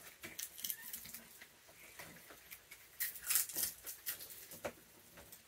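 Raccoons feeding on snacks: scattered soft clicks and rustles, loudest in a short cluster about three seconds in.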